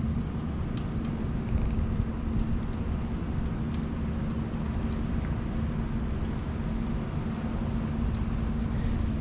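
Steady outdoor background of light rain and a low rumble, with a faint steady hum and a few scattered drop-like ticks.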